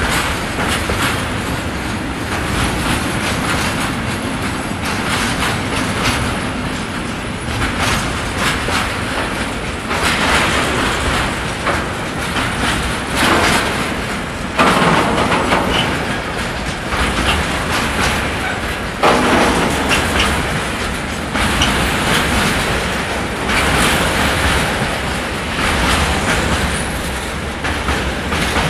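A freight train hauled by electric locomotive 111Ed-005 (a Siemens Vectron) rolls past. Its wagon wheels give a steady rolling noise, with repeated groups of clickety-clack as they cross rail joints.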